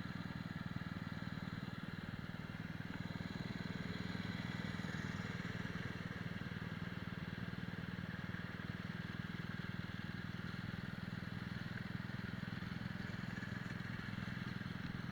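Kart engine idling steadily: an even low hum with no revving.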